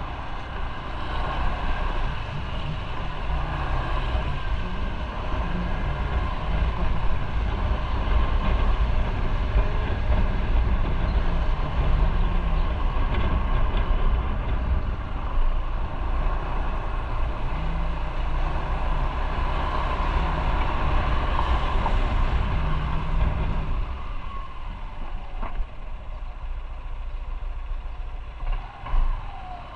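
Motorcycle riding on the road: engine running under way with wind rumble on the microphone, the engine note shifting up and down. It eases off about two-thirds of the way through as the bike slows.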